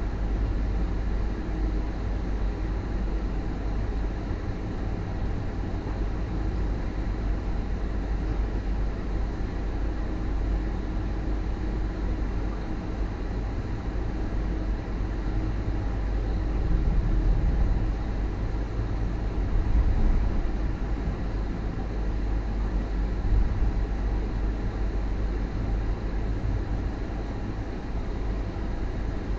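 Steady low rumble of a double-decker passenger train carriage running along the line, heard from inside the carriage, swelling slightly a couple of times past the middle.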